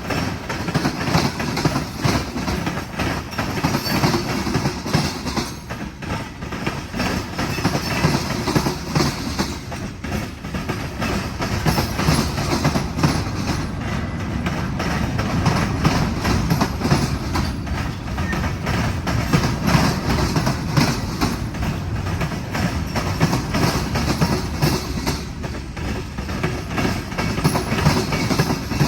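Freight train cars rolling steadily past at close range, their wheels clicking and clacking over the rail joints in a continuous rumble.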